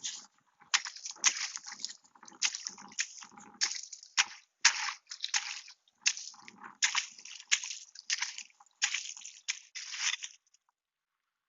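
Repeated crunching and sloshing in icy slush and sleet, about two crunches a second, stopping about a second before the end.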